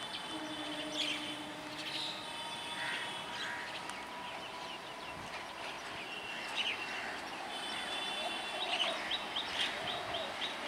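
Small birds chirping again and again, with quick strings of short chirps in the second half, over a faint steady outdoor background.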